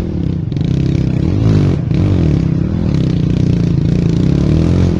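Off-road motorcycle engine running on a trail, its pitch rising and falling with repeated throttle changes, climbing most sharply about a second and a half in.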